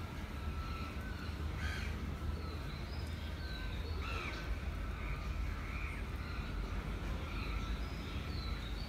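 Birds calling: scattered short calls and chirps, one louder call about halfway through, over a low steady rumble.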